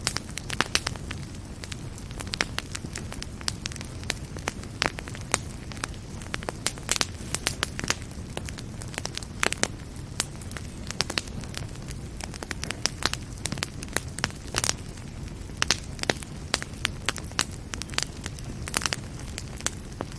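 Fire in a fireplace crackling, with many irregular sharp pops and snaps over a low steady rumble.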